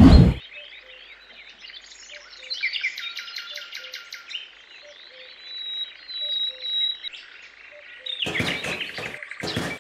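Small birds chirping and warbling in quick, varied calls. There is a loud thump at the very start, and a run of sharp knocks about a second and a half before the end.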